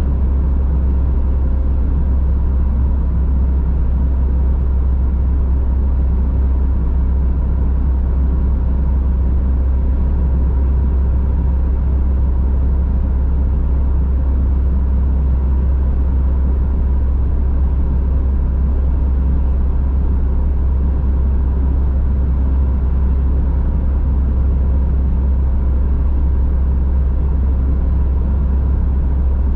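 A car driving at a steady speed: constant low engine and tyre rumble with road noise, unchanging throughout.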